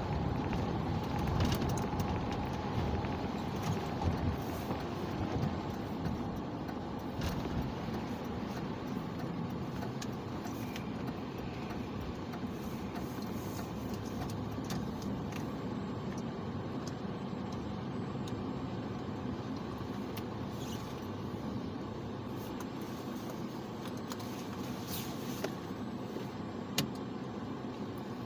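Car driving on snowy roads: a steady rumble of engine and tyres, with scattered light clicks and ticks.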